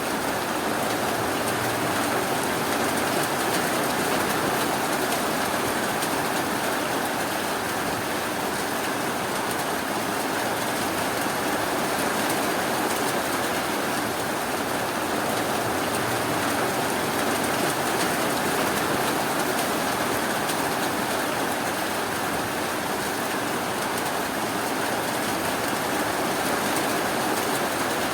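Steady rainfall, an even dense hiss with no breaks or individual drops standing out.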